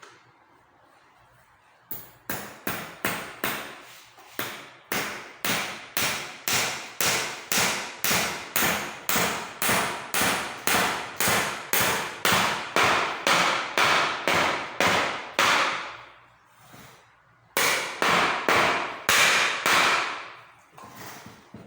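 A hammer striking a school chair being repaired, in steady blows about three a second. A long run of blows is followed by a pause of about a second and a half, then a shorter run.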